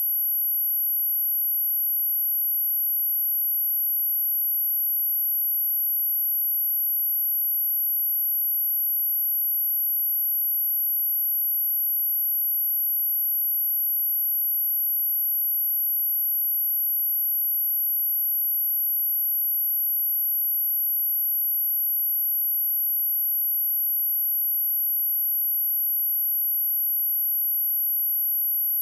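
A pure 11731 Hz sine test tone, one steady high-pitched whine that holds its pitch and level throughout.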